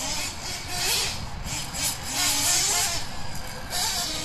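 Nitro engines of a twin-engine Kyosho ST-RR 1/8-scale truggy revving up and down in short bursts. Loud hiss swells and fades under them.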